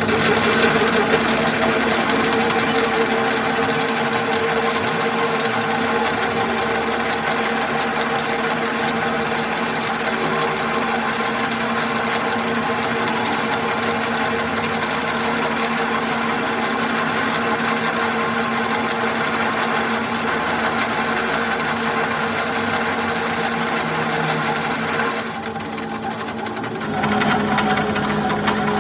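A machine running steadily with a constant hum and rattle, dipping briefly near the end before picking up again.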